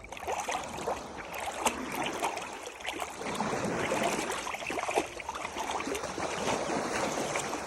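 Ocean water washing and splashing, with small waves lapping at the shore in a steady, irregular wash.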